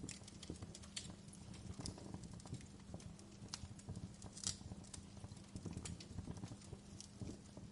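Wood fire burning in a fireplace: logs crackling with irregular sharp pops and snaps over a low, steady rumble of flame, with one louder pop a little past halfway.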